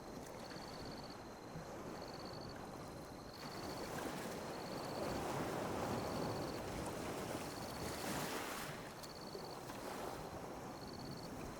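Ocean waves washing and lapping on a beach, swelling louder about a third of the way in. A faint high chirp repeats about once a second throughout.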